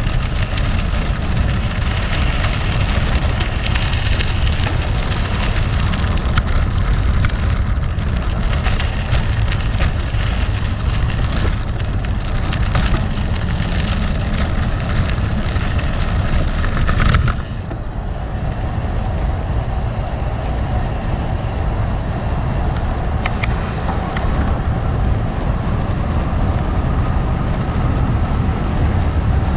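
Gravel bike tyres rolling over rough gravel, with wind rumbling on the microphone and scattered clicks and rattles from the bike. A sharp clack a little past halfway, after which the noise is a little quieter.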